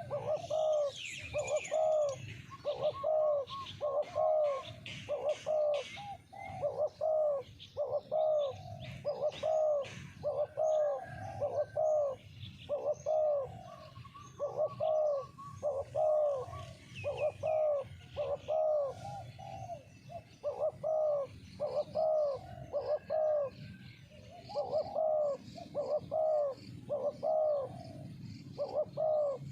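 Spotted doves cooing over and over, about one coo a second, with smaller birds chirping faintly higher up.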